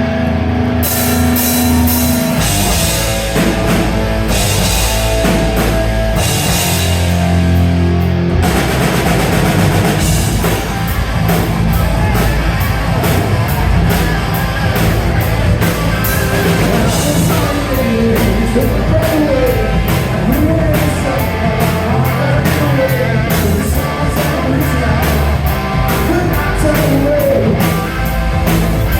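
Live hard rock band playing loud: a drum kit and distorted electric guitars, with bending lead-guitar lines. The drums come in about two seconds in, and the full band crashes in at about eight seconds.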